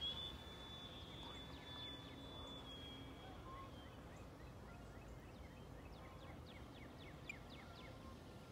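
Faint whine of the E-flite Draco's electric motor and propeller in flight: the pitch rises, holds steady for about three seconds and fades, and a lower whine comes back near the end.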